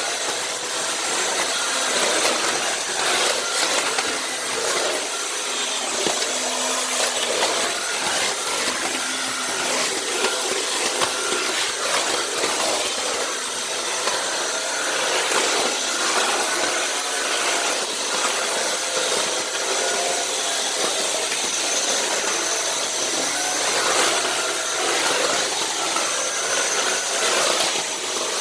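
Dyson Cinetic canister vacuum running steadily with a high-pitched motor whine, its floor head rubbing and scraping over the floor as it is pushed back and forth.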